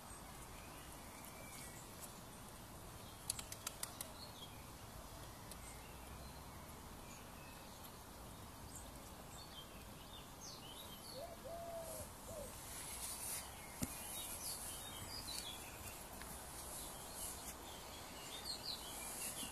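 Faint outdoor ambience with small birds chirping, the calls becoming busier in the second half. A quick run of four light clicks comes about three seconds in, and a single click later.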